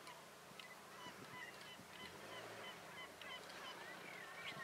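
Faint bird calls: a series of short, high chirps, about three a second, over quiet open-air ambience.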